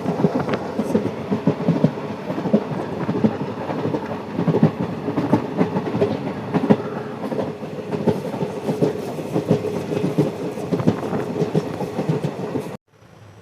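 Passenger express train running along the track: a steady rumble with many sharp knocks from the wheels on the rails. It cuts off abruptly near the end.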